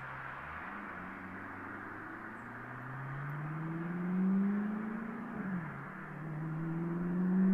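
Maserati Coupe GT's 4.2-litre V8 with a Larini exhaust accelerating: the engine note rises steadily, drops sharply a little after five seconds in at a gear change, then climbs again.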